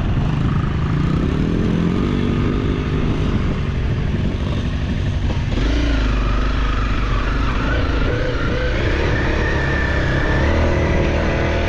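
Off-road vehicle engine running under load on a climb, its pitch rising and falling with the throttle. The engine note changes about five and a half seconds in, like a shift or change in load.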